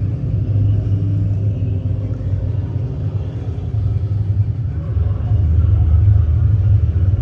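Steady low rumble that swells a little about five seconds in.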